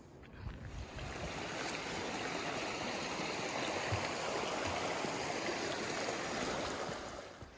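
Rushing water of a mountain stream, a steady dense hiss that builds up about a second in and drops away near the end.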